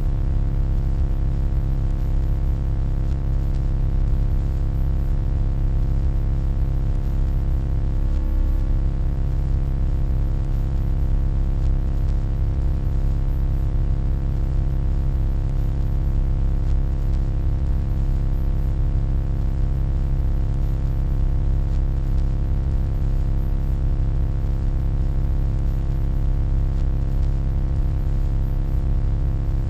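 Steady, deep electronic hum with many steady overtones layered above it, unchanging throughout.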